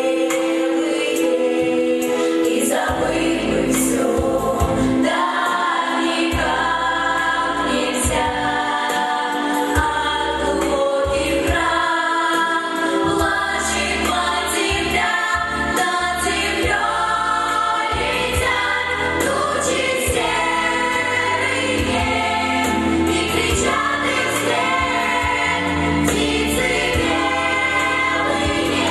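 A vocal ensemble sings a song together over instrumental accompaniment, with a bass line coming in about three seconds in.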